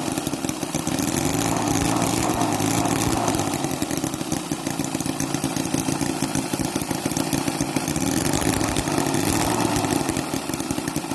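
Microcosm (OKMO) H75 Holt scale model gasoline engine running warm, its note swelling and easing a few times.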